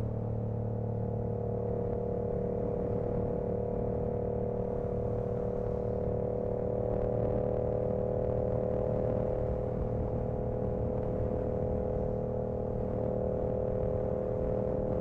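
2025 Yamaha R7's CP2 689 cc parallel-twin engine running at a steady cruise, its exhaust note holding an even pitch that creeps up slightly over the first few seconds.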